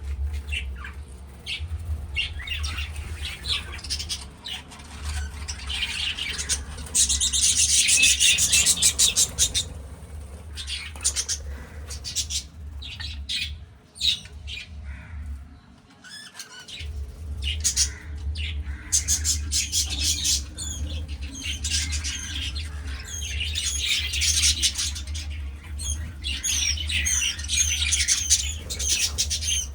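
Pet budgerigars chattering, chirping and squawking in dense, busy bursts, over a steady low hum that cuts out briefly about halfway through.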